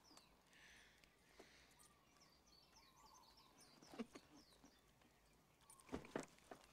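Faint outdoor ambience with small birds chirping in quick repeated sweeps, and a few sharp clicks about four and six seconds in.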